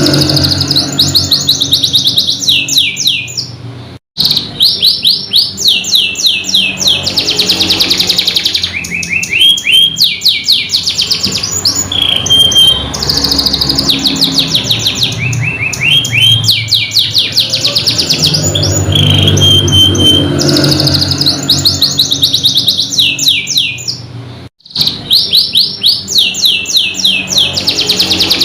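Domestic canary singing a long song of rapid trills and rolls, each phrase a fast run of repeated notes. The song breaks off briefly twice, about four seconds in and near the end.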